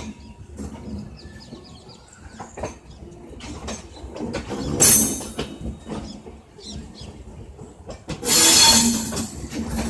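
Train rolling slowly over the tracks, its wheels clicking irregularly over rail joints. There is a short loud burst about five seconds in and a longer, louder burst of about a second near the end.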